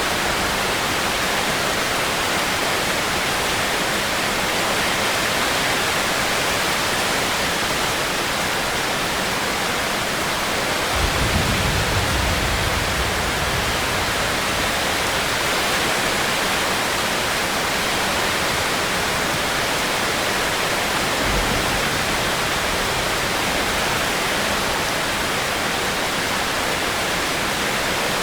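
Steady rain falling as an even hiss. Partway through there is a brief low rumble lasting about two seconds, and a shorter, fainter one later.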